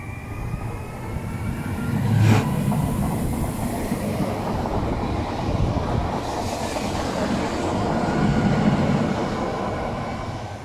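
An SNCF Régiolis TER electric-diesel multiple unit accelerates past at close range. A whine rises in pitch over the first two seconds as it gathers speed. The train is loudest about two seconds in as the cab goes by, with a sudden hard burst, and the rumble and rattle of wheels on rail follow as the carriages pass.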